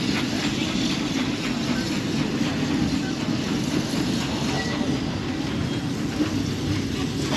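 Walt Disney World Railroad's narrow-gauge steam train running along the track: a steady rumble of the coach's wheels on the rails, heard from an open-sided passenger car.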